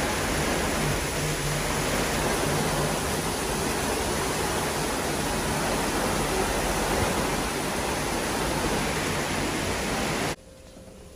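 Heavy tropical rain pouring down, a dense, steady hiss that stops abruptly near the end.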